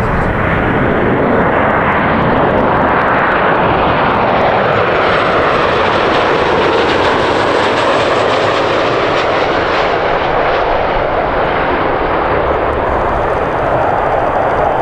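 Jet airliner passing close by, loud, steady rushing jet noise with a sweeping, swelling tone as it goes past.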